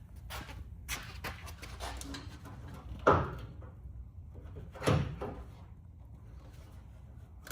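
Two loud clunks about two seconds apart, with lighter knocks and clicks between them, from hands-on work with hardware.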